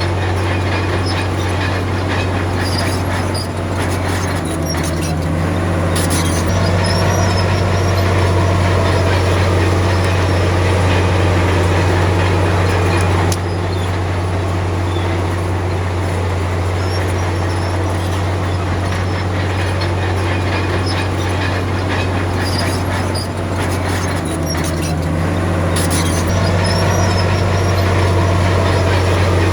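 Diesel engine of a Komatsu D53P crawler bulldozer running steadily under load, its note shifting twice, with bursts of metallic clatter from the tracks and blade at those moments.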